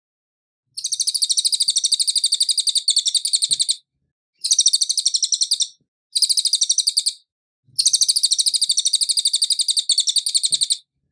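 Cililin songbird singing a high, very rapid trill of repeated notes in four bursts, the longest about three seconds, with short gaps between them.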